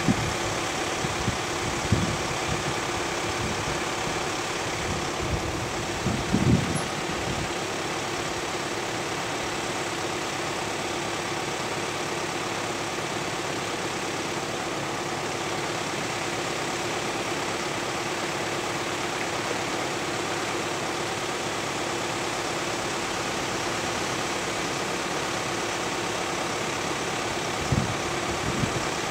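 VW Amarok engine idling steadily as the ute creeps slowly up to the edge of a steep drop, with a few brief low thumps.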